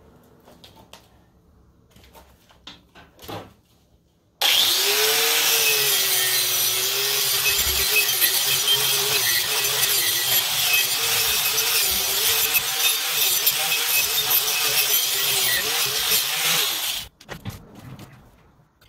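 A power-driven wire wheel scouring a forged steel handle held in a vise, stripping off the forge scale. After a few light clicks, the tool starts suddenly about four seconds in and runs for about twelve seconds as a loud scratchy hiss over a wavering whine, then cuts off abruptly.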